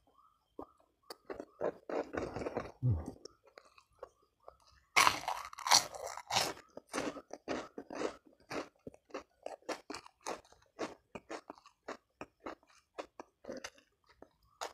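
A person biting into crunchy food close to the microphone, with one loud crunchy bite about five seconds in, then steady crunchy chewing, several crunches a second.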